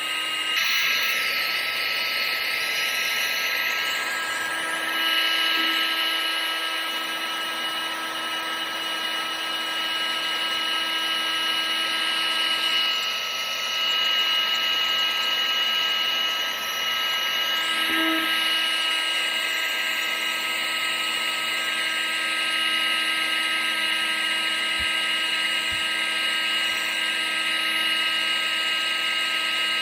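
An electric appliance motor running steadily, with a high whine over rushing air.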